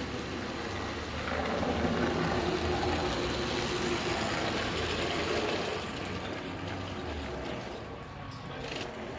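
Model train running along the layout, its motor and wheels growing louder as it passes close by between about one and six seconds in, then easing off.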